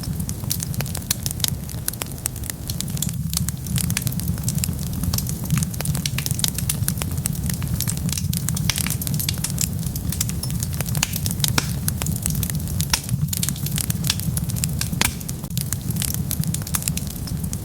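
Wood fire crackling steadily, with many sharp snaps every second over a constant low rumble.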